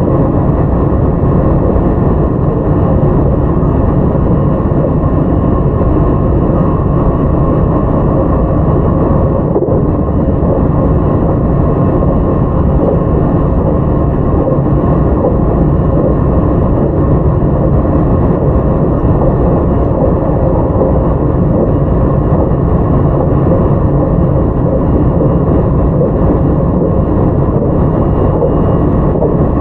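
Running noise inside a JR 681 series limited-express EMU (motor car KuMoHa 681-505, Toshiba GTO-VVVF) travelling at a steady speed: a constant rumble of wheels on rail with faint steady tones over it.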